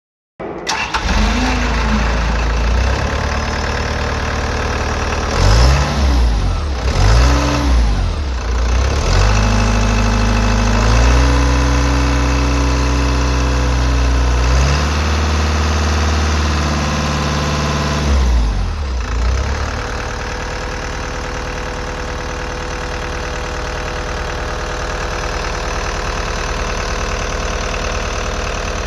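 Isuzu 4BG1T four-cylinder turbo-diesel engine running. It is revved up briefly twice, about five and seven seconds in, then held at a higher speed for about ten seconds, and drops back to a steady idle for the last third.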